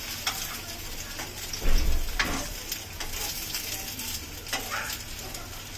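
Egg-and-milk-soaked bread slices sizzling steadily as they shallow-fry in ghee in a non-stick frying pan, with a metal spatula clicking and scraping against the pan. A dull thump just under two seconds in.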